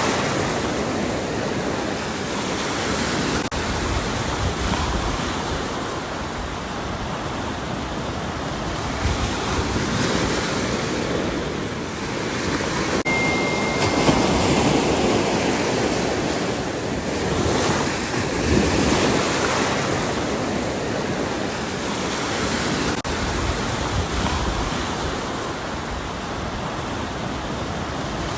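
Ocean waves breaking and washing onto a shore in a continuous rush that swells and eases every few seconds. A brief high steady tone sounds about halfway through.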